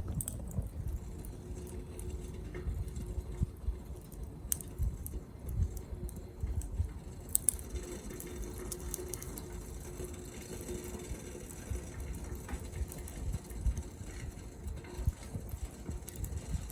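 Wood fire crackling in a small Captain Stag Kamado Smart Grill B6 fire stand, with scattered sharp pops over a low rumble.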